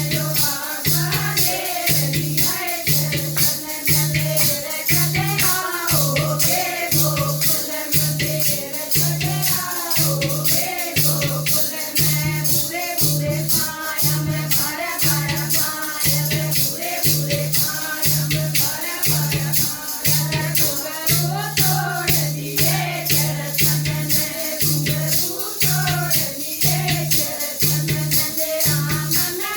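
Haryanvi devotional bhajan: a sung melody over a steady beat of rattling, jingling percussion and a regular low drum-like pulse.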